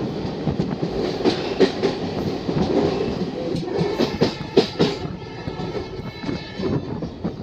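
Indian Railways passenger train running along the track, heard from aboard the coach: a steady rumble of wheels on rail with irregular clacks and knocks over the rail joints.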